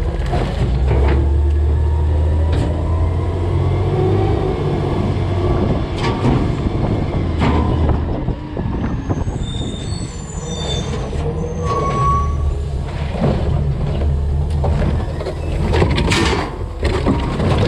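Peterbilt 320 CNG garbage truck with a DaDee Scorpion automated side-loader working a pickup: the engine speeds up in two stretches to drive the hydraulic lift arm, with a gliding hydraulic whine, knocks and clatter of the cart and garbage dumping into the hopper, and a few short squeals.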